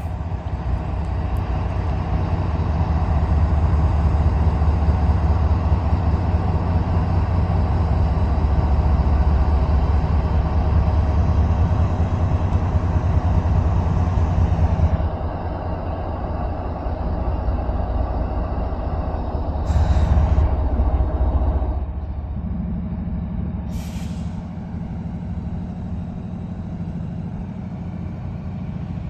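Norfolk Southern freight locomotive's diesel engine running loud, then dropping back about halfway through to a lower, steady idle. Two short hisses of air from the air brakes come a few seconds apart, about two-thirds of the way through.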